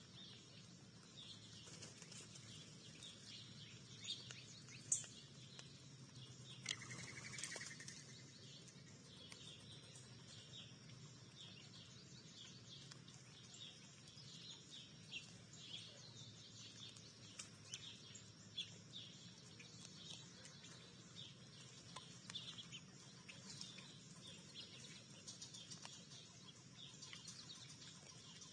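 Small songbirds at a feeder giving many short, faint chirps throughout, with a sharp click about five seconds in and a brief rustling burst a second or two later.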